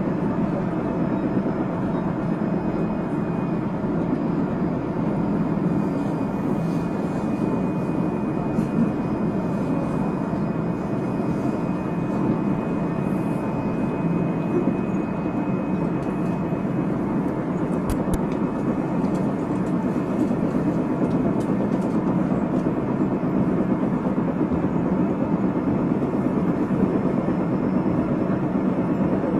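JR Central 373 series electric train (set F2, a set with an unusual noise) running along the track: a steady rumble of wheels on rail. A faint high whine is held through the first half, and a sharp click comes about 18 seconds in.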